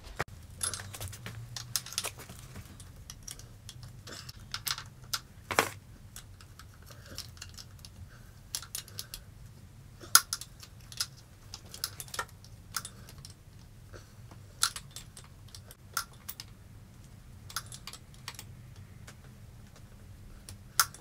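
Scattered light metallic clicks and clinks of hand tools and loose exhaust parts being handled, irregular and spread out, a few sharper knocks among them, over a faint low hum.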